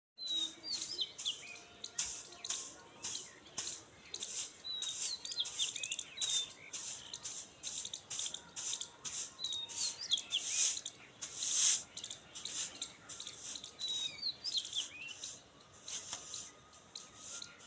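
Small birds chirping over and over in short, quick calls, mixed with frequent short hissy rustling or splashing noises.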